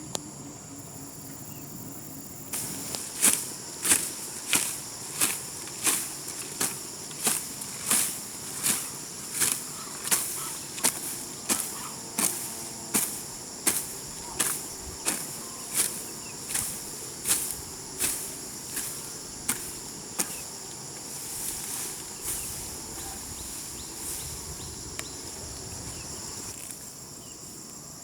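Garden hoe chopping into grassy soil in steady strokes, about three every two seconds, getting weaker after about 20 s and stopping a second or two before the end. Crickets trill steadily underneath.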